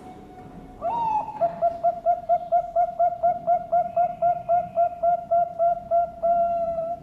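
Zebra dove (Bangkok-type perkutut) singing: an opening note about a second in, then a fast, even run of about twenty short coos, ending in one long held coo.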